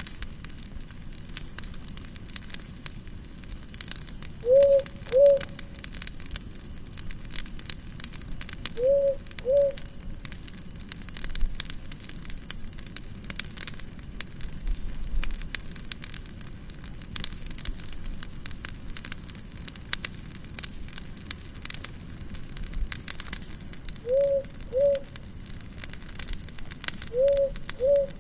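Campfire crackling and popping throughout, with a low two-note animal call repeated four times a few seconds apart and two short runs of quick, high chirps.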